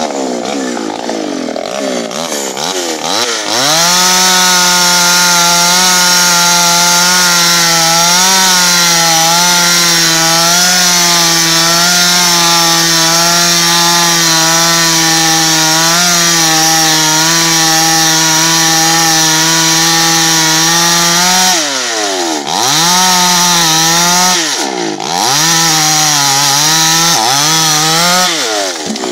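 Chainsaw cutting wood: it revs up over the first few seconds, then runs at high, steady revs with small dips in pitch. About 22 s in, the revs drop sharply and come back up twice before running high again.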